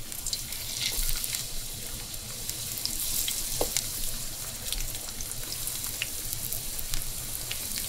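Peeled eggplant halves sizzling in about a quarter cup of hot oil in a frying pan as more pieces are laid in, a steady hiss with scattered small pops and crackles.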